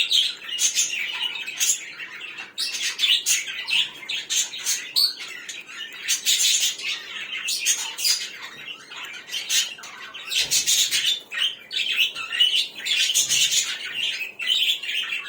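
A flock of pet budgerigars and zebra finches chirping and chattering continuously, many quick overlapping calls.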